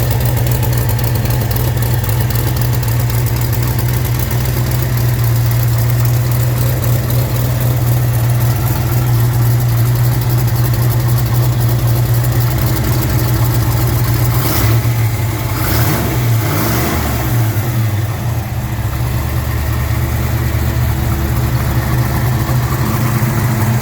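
Saleen Mustang's V8 idling steadily during a cold start, with a brief change in the engine note about fifteen seconds in.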